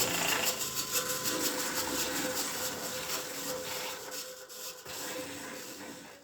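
Rapid, repeated abrasive rubbing strokes, as in sanding or rasping shoe material by hand, growing fainter toward the end.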